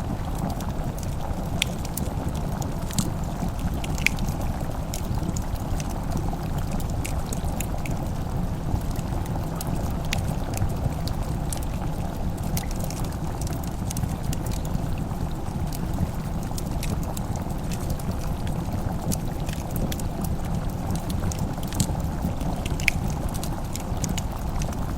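Wood fire crackling, with sharp scattered pops and snaps over a steady low rumble.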